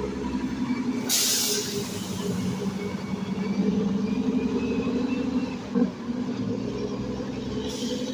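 Heavy truck diesel engine running steadily, with a short burst of hissing air about a second in and a fainter one near the end, typical of air brakes.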